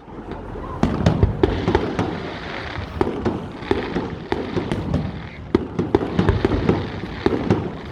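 Fireworks going off in a rapid, irregular series of sharp bangs and crackles, starting about a second in and continuing throughout.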